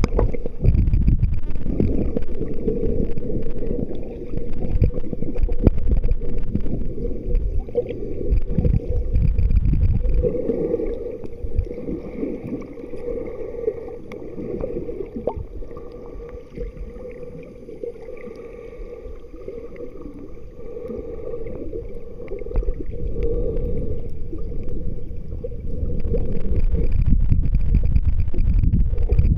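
Water washing and rumbling around a kayak, with wind on the microphone. It is loud for the first ten seconds or so, drops lower through the middle, and swells again near the end, over a faint steady hum.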